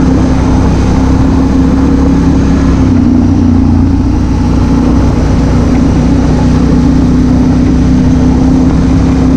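Honda Africa Twin CRF1000L's parallel-twin engine running at a steady cruise, heard from a helmet-mounted camera with wind rush. The engine note dips slightly about three seconds in, then holds steady again.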